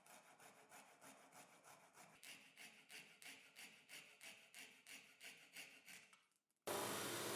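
Faint, even back-and-forth strokes of a hand tool working a small part, about three strokes a second. They stop about six seconds in, and a louder steady noise starts abruptly soon after.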